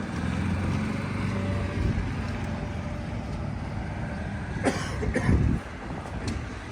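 A motor vehicle's engine running with a low, steady hum, and two short loud noises about five seconds in.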